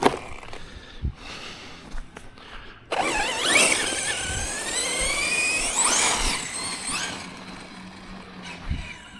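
Tekno MT410 2.0 RC monster truck's brushless electric motor and drivetrain whining under throttle, starting about three seconds in. The pitch rises and falls several times over about four seconds, then fades out.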